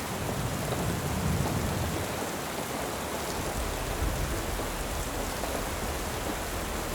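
Steady rain falling, with low rolling rumbles of thunder, one swelling about a second in and another building from halfway through.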